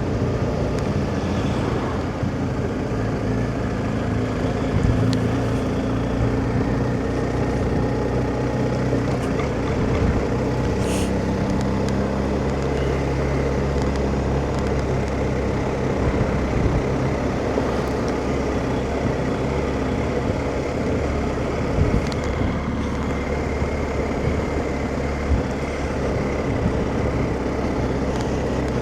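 BMW R1250GS boxer-twin motorcycle engine running while under way, with steady wind and road noise; the engine note shifts a little in pitch.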